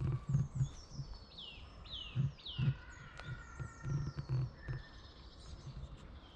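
Birds singing in woodland, a series of short high notes, each sliding downward in pitch. Irregular soft low thumps sound over the birdsong, loudest in the first few seconds.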